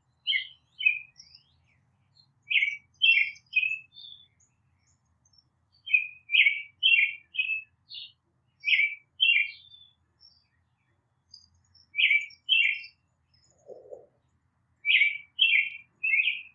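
A small songbird calling: short, bright chirps repeated about two a second in groups of two to four, with pauses between the groups.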